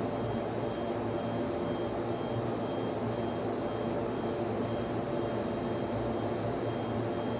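Server room hum: the cooling fans of servers and network switches running steadily, with a faint high whine that comes and goes.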